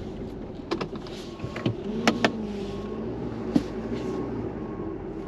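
Tow truck engine idling steadily, with a handful of sharp clicks and knocks; the two loudest come close together a little past two seconds in.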